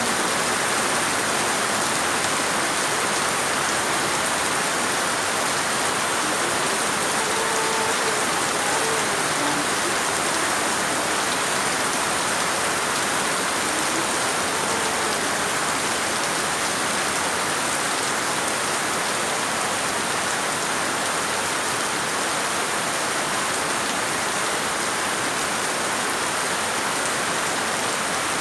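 Rain falling steadily: an even, constant hiss of many drops with no breaks.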